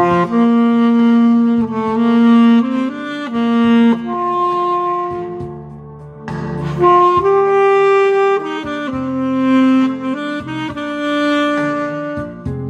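Instrumental music: a saxophone playing a melody of long held notes over a backing accompaniment.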